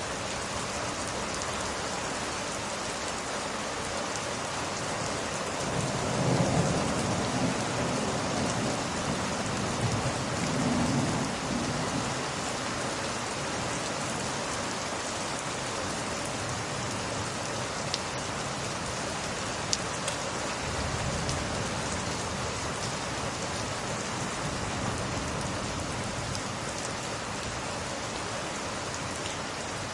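Steady heavy rain, with thunder rumbling low about six seconds in and again around eleven seconds. A few sharp clicks stand out over the rain in the second half.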